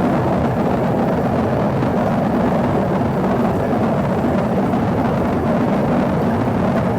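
Steady cabin noise inside an Embraer ERJ-145 regional jet in flight: the even rush of airflow and the hum of its two rear-mounted Rolls-Royce AE3007 turbofans.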